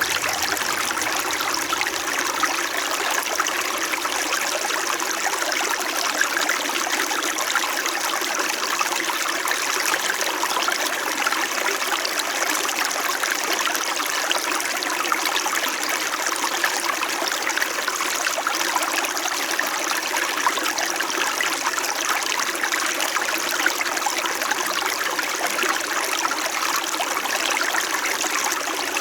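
Small stream flowing steadily, a constant, even babble of running water.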